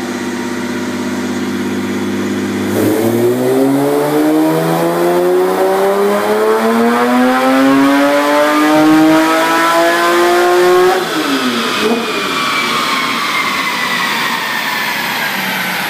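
Twin-turbocharged Porsche Cayman 2.7-litre flat-six on a chassis dyno: a steady low-rev note, then from about three seconds in a full-throttle pull rising steadily in pitch for about eight seconds. The throttle then closes abruptly and the revs fall away, with a high whine winding down.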